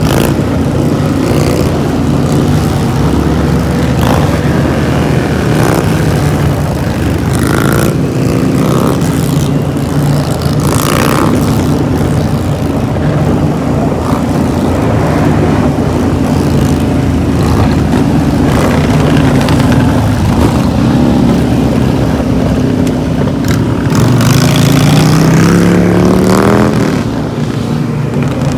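Motorcycle engines running steadily at road speed, heard from a moving motorcycle along with rushing wind noise. The engine note rises near the end as the bike accelerates.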